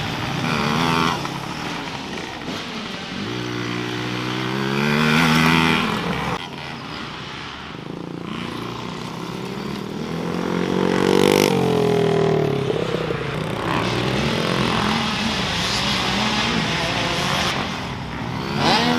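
Dirt bike engine revving as it is ridden, its pitch climbing and dropping off in turn, with the strongest climbs about three and ten seconds in.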